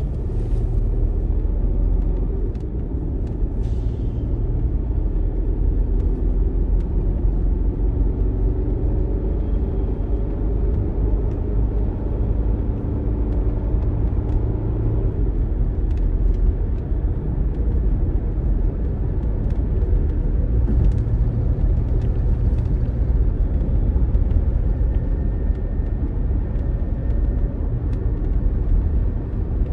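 Car being driven, a steady low rumble of engine and road noise heard from inside the cabin.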